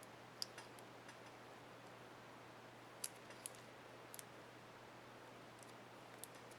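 Sparse, faint small plastic clicks and ticks from a laptop keycap and its retainer clip being handled and snapped on a keyboard, in clusters about half a second, three seconds and six seconds in, over a steady low hum.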